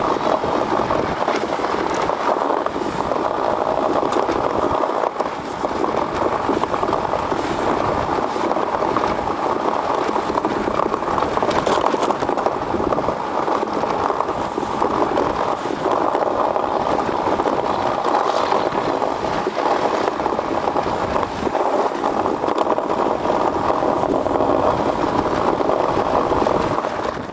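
Steady noise of an aluminium ice yacht's runners travelling fast over lake ice, mixed with rushing wind. It goes on without a break.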